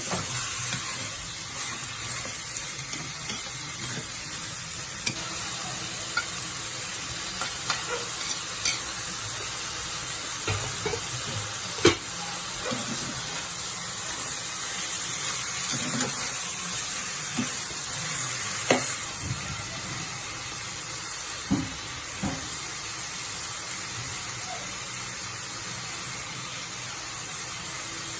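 Food frying in a pan with a steady sizzle, while a spoon or spatula stirs it, knocking and scraping against the pan at irregular moments; the sharpest knock comes about twelve seconds in.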